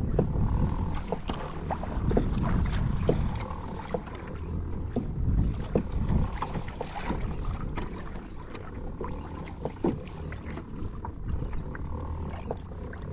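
Water splashing and lapping around a kayak, with many small scattered knocks and clicks. A low, uneven rumble of wind on the microphone runs underneath.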